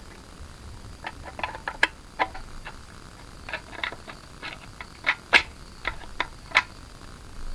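Scattered light clicks and taps at irregular intervals, about a dozen, with the sharpest ones a little past the middle.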